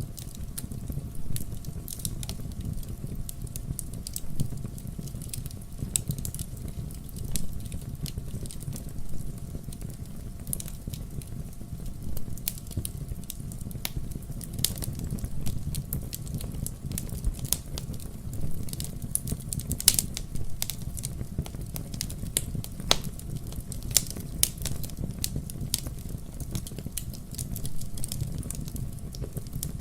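Wood fire burning in a fireplace: a steady low rumble of the flames with irregular sharp crackles and pops, one louder pop about twenty seconds in.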